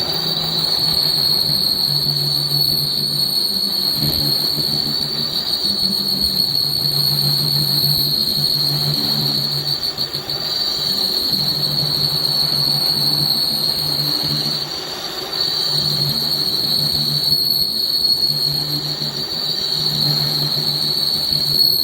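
Metal lathe turning a hydraulic jack piston: a steady high-pitched squeal from the cut over a low machine hum that comes and goes every second or two.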